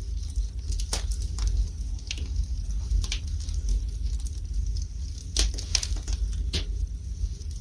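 Wood fire burning in a fireplace: irregular crackling with sharp pops, several louder ones standing out in the second half, over a low steady rumble.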